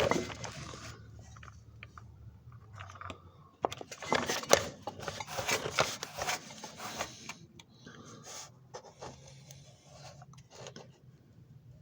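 Rubbing and scraping with scattered light knocks against the dirty, rusty surface of an old coal and wood stove, most busy from about four to seven seconds in.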